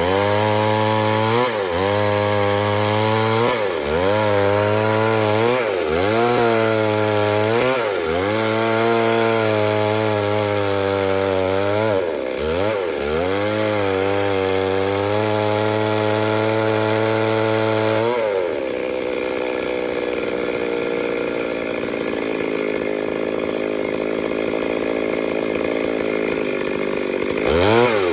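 Two-stroke chainsaw cutting wood: the engine pitch repeatedly dips under load and climbs back up. About two-thirds of the way through the engine note drops out, leaving a steadier rasping sound, and the revving comes back near the end.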